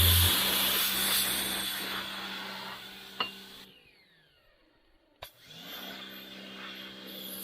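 Background music fading out, with a short dip to near silence. Then a sharp click, and a steady motor hum with a low tone starts.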